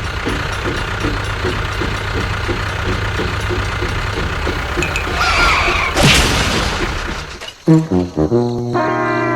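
Cartoon soundtrack of music and sound effects: a steady hum with a regular chugging pulse, like a small engine running, then a crash about six seconds in, and a held tone sliding downward near the end.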